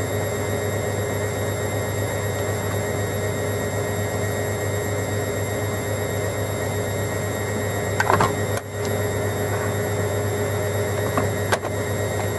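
Hoover Logic washing machine running mid-cycle between rinses: a steady mechanical hum with a faint steady tone. A short sharp sound comes about eight seconds in, and a smaller one near the end.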